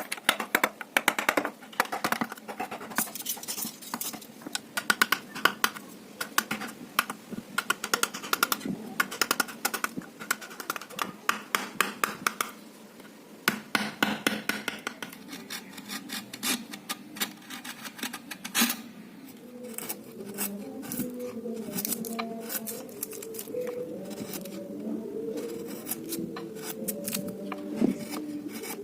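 Hand carving tools working teak wood: many quick, sharp taps and cutting clicks, giving way about two-thirds through to a steadier scraping and rubbing, like filing or smoothing the wood.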